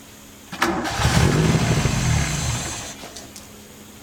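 An engine revs suddenly about half a second in, runs loud for a couple of seconds, then falls away.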